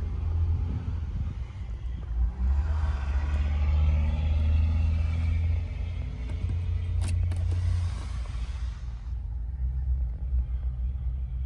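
Low, steady rumble of a running vehicle engine, with one sharp click about seven seconds in.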